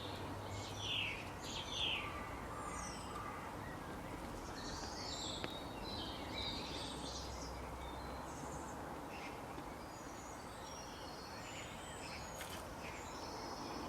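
Several small birds chirping in short, quick notes, some sweeping downward, over a steady background noise.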